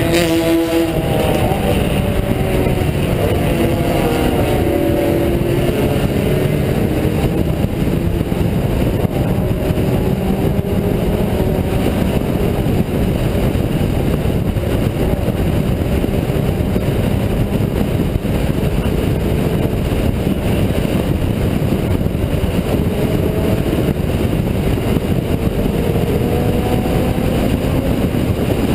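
Honda Integra DC2's four-cylinder engine running hard at speed under heavy road and wind noise. Its pitch drops about a second in, then climbs over the next few seconds and again near the end as the car accelerates.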